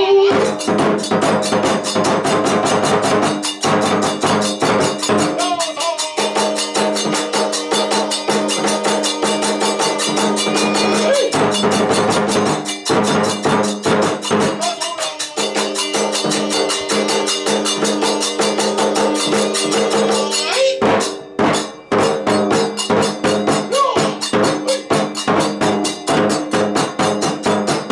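Kagura accompaniment music: a fast, dense percussion rhythm with steady held tones under it, breaking off briefly about 21 seconds in before picking up again.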